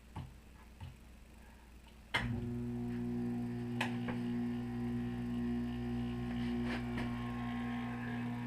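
A couple of faint clicks, then about two seconds in the Rheem Prestige hybrid heat pump water heater's heat pump kicks on and runs with a steady, even hum.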